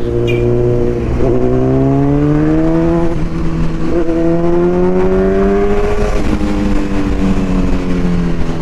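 Motorcycle engine pulling hard with rising pitch, shifting up twice, about a second in and again about four seconds in, then holding a steady cruise.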